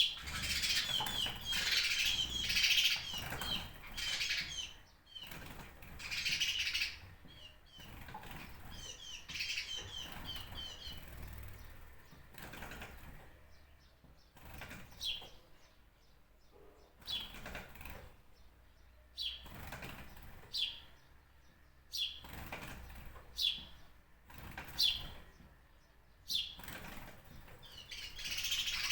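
Songbirds chirping: quick runs of chirps through the first ten seconds or so, then single sharp call notes repeated every second or two.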